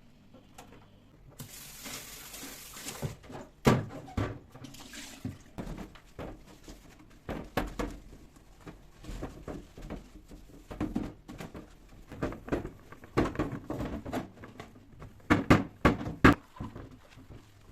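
Household things being handled in a kitchen: an irregular run of knocks and clicks as items are picked up and set down, with a short hissing rush about a second and a half in.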